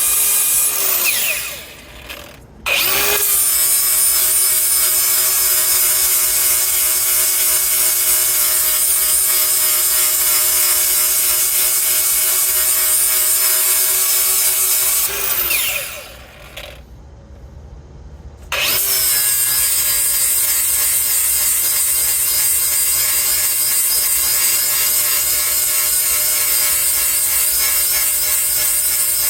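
A handheld power grinder running at speed as it sharpens the teeth on a Bandit Beast 4680's mill: a steady whine over a rough grinding noise. Twice it is switched off, winds down and spins back up, about two seconds in and again about halfway through.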